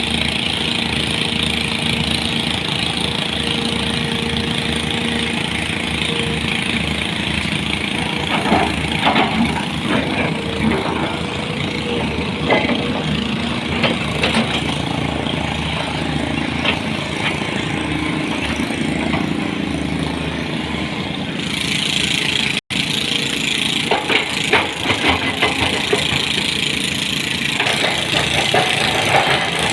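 A heavy vehicle's engine running steadily, with scattered knocks and clatter over it, and a momentary dropout about two-thirds of the way through.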